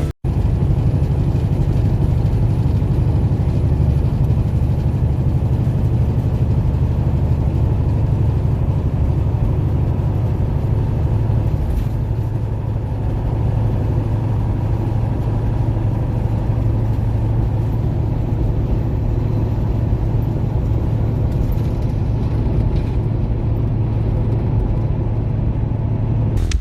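Steady low drone of a semi-truck's engine and road noise heard inside the cab while driving at an even speed.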